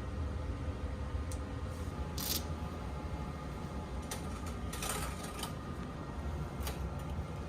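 Steady low rumble of a moving train, heard from inside the carriage, with a handful of short clicks and rattles. The longest rattles come about two seconds in and again near the middle.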